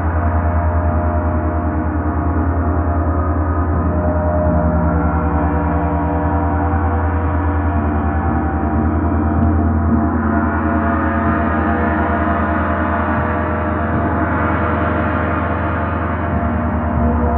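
Gong played continuously in a sound-healing session: a dense, sustained wash of ringing overtones over a deep hum, pulsing quickly and evenly, swelling a little about ten seconds in.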